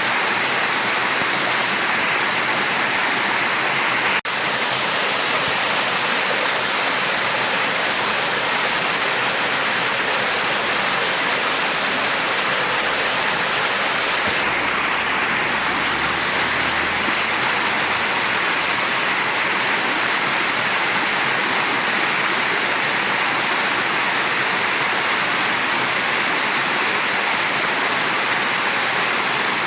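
Mountain stream rushing steadily, with a brief click and dropout about four seconds in.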